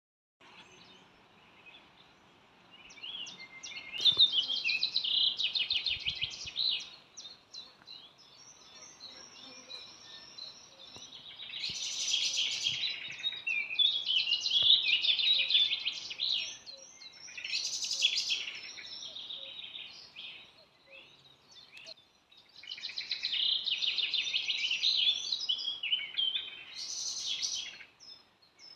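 A songbird singing a series of varied phrases, each a few seconds long, with pauses between them over a faint outdoor background hiss.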